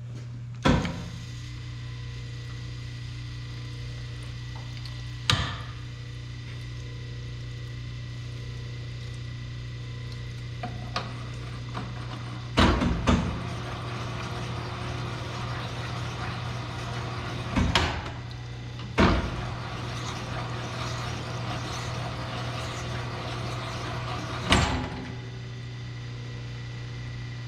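Rod hone running with a steady low hum while connecting-rod bushings are honed on its abrasive stone. About six sharp knocks come at irregular intervals, and from about halfway a rasping hiss of honing joins the hum.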